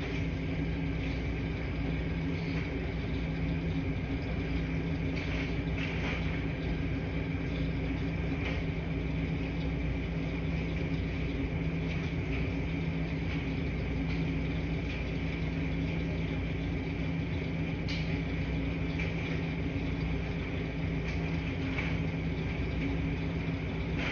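Washing machines running in a laundry room: a steady low hum and rumble with faint clicks every few seconds.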